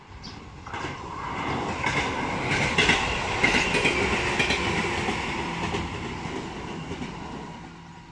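Two-car electric commuter train passing close by, wheels clacking over the rail joints. The rumble builds about a second in, peaks midway with a few sharp clacks, and fades as the train draws away.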